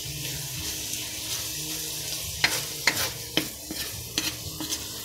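Pork with garlic and onion sizzling steadily as it sautés in a pan, with a cooking utensil knocking and scraping against the pan several times in the second half.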